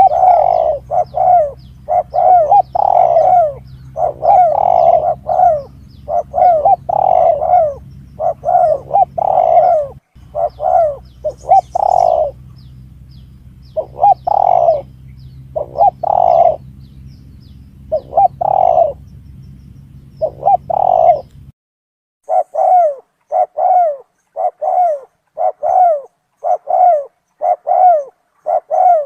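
Spotted dove cooing: repeated phrases of short, rising-and-falling coo notes following one another closely. A low steady hum underneath stops about three-quarters of the way through.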